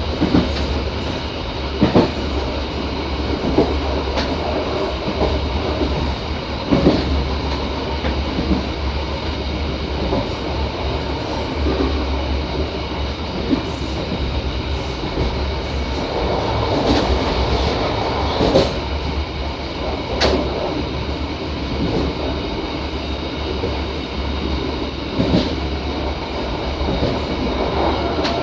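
Passenger train running along the track, heard from inside the last carriage: a steady rumble of wheels on rails with sharp clacks every couple of seconds as the wheels cross rail joints.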